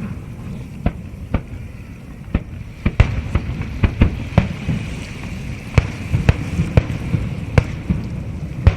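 Fireworks going off: a rapid, irregular series of sharp bangs and pops, over a steady low background noise.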